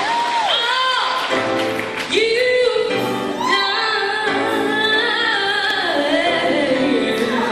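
Gospel singing, a female voice holding long notes and sliding between pitches, with a falling slide near the start, over other voices in harmony.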